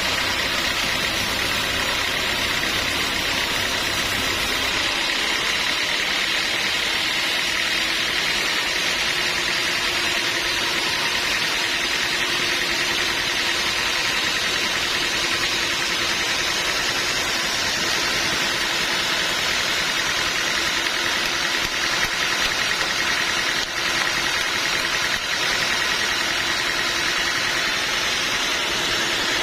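Sawmill machinery running steadily, a continuous mechanical noise with a low hum that drops out about five seconds in.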